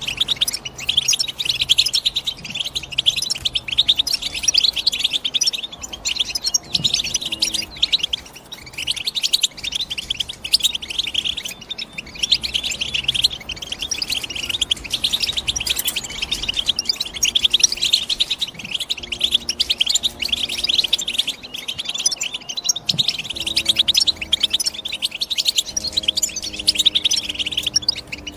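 European goldfinch singing: a fast, continuous twittering of high chirps and trills with only brief pauses.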